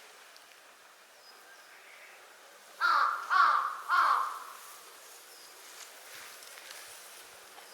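Large-billed crow calling three harsh caws in quick succession, about three seconds in.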